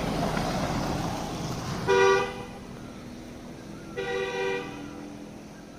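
Two short two-tone horn toots about two seconds apart, each lasting about half a second, after a rushing noise of a passing vehicle.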